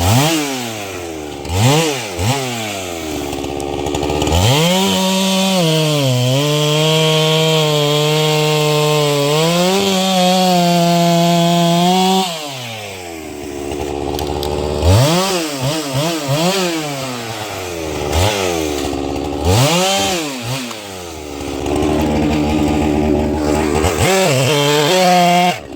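Holzfforma 395XP two-stroke chainsaw blipping its throttle up and down. It then holds at high revs for about eight seconds through a cut in a white pine log, sagging briefly once as the chain bites, before going back to quick revs up and down.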